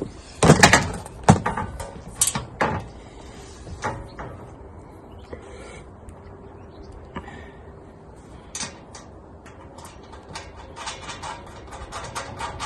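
Metal leg sections and fasteners of a scroll saw stand knocking and clinking as they are handled and bolted together. A cluster of loud knocks comes in the first three seconds, then lighter scattered clicks.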